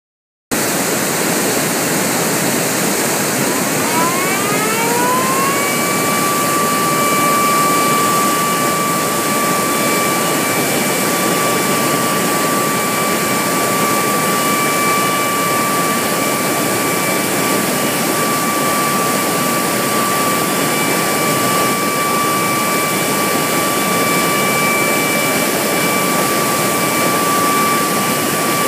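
Steady roar of water rushing out of the Takizawa Dam spillway during a test release. A few seconds in, a warning siren winds up and then holds one steady high tone over the roar.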